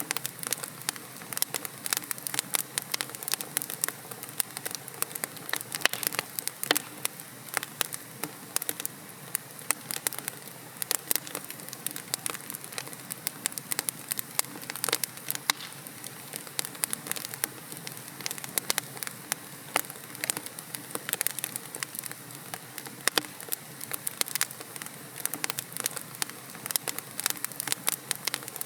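Wood logs burning in a fireplace, crackling and popping with many sharp, irregular snaps over a low steady hiss.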